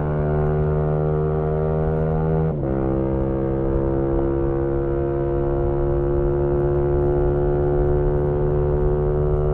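2018 Yamaha MT-125's single-cylinder engine running through an aftermarket GPR exhaust under steady throttle. About two and a half seconds in, the note drops sharply as it shifts up a gear, then climbs slowly as the bike pulls.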